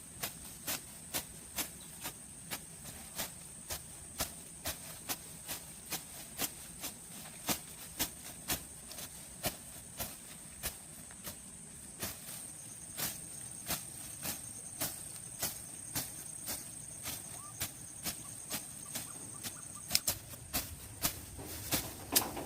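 Insects droning steadily in a high, even tone, a second high tone joining about halfway through. Over it come sharp taps or knocks at a fairly even pace of about two a second.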